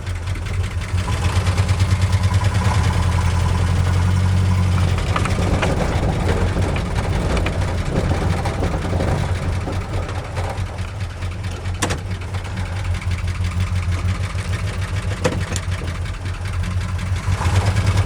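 A 1976 Ford F-250's 390 FE V8 running with a deep, fast-pulsing rumble through its new headers and exhaust, louder for the first few seconds and then steadier, as the truck is driven in reverse in four-wheel-drive high. The engine is worn, two of its cylinders low on compression.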